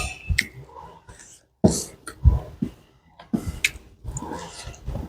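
Close-miked eating sounds: irregular chewing with wet mouth clicks and smacks.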